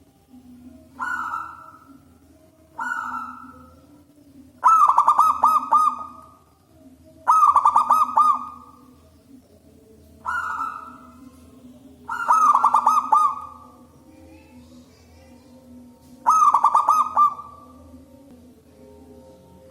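Zebra dove (perkutut) cooing loudly: seven phrases a couple of seconds apart, several ending in a fast rolling trill, over a low steady hum.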